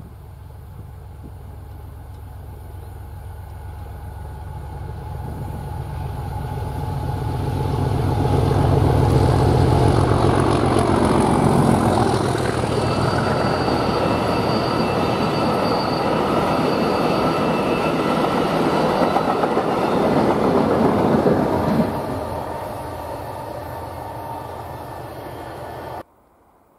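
Class 37 diesel locomotive approaching and passing at speed with a train of HOBC hopper wagons. The engine's low rumble builds over the first nine seconds or so. Then the wagons roll by with a steady rumble and several high ringing tones, which drop away after about 22 seconds as the train recedes, and the sound cuts off suddenly near the end.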